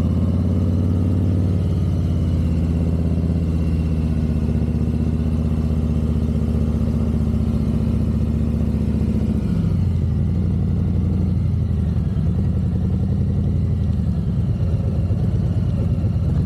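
Harley-Davidson Fat Boy 114's Milwaukee-Eight 114 V-twin engine running steadily, its pitch dropping slightly about ten seconds in.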